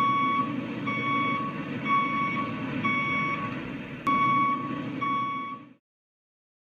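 Vehicle reversing alarm beeping about once a second, six beeps of one steady pitch, over a steady low engine rumble; it all cuts off suddenly near the end.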